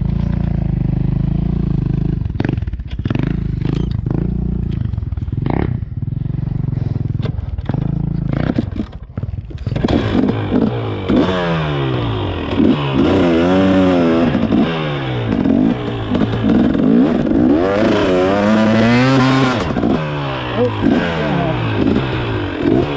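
Dirt bike engine running at low revs with scattered clattering knocks. From about ten seconds in it is revved up and down over and over.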